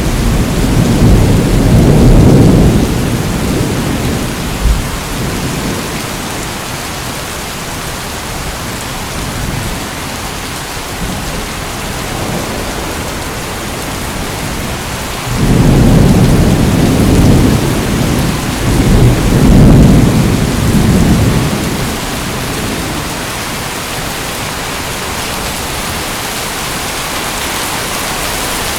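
Steady heavy rain with rolls of thunder. One rumble is fading at the start and dies away within a few seconds, and another long rumble comes about halfway through.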